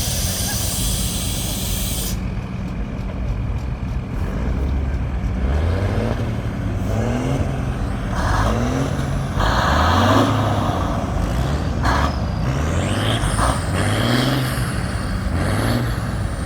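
A heavy tractor engine revving up over and over, its pitch climbing and dropping back about once a second, after a brief hiss of air at the start. A few short bursts of noise come through the middle, the loudest about ten seconds in.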